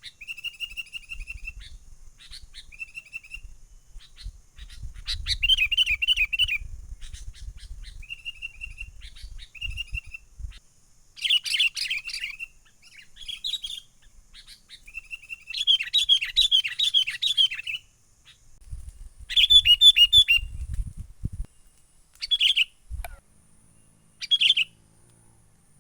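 Sooty-headed bulbuls (kutilang) calling in bouts of quick, bubbly chattering notes, with short pauses between bouts. This is the vigorous, excited 'gacor' calling used as a trapping lure.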